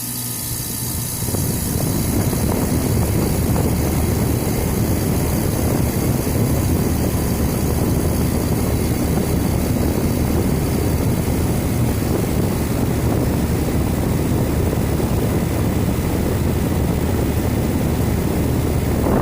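5-ton, 16 SEER Goodman central air conditioner condensing unit running after its first startup of the season: the condenser fan rushing air over a steady low hum. It grows louder over the first couple of seconds, then holds steady.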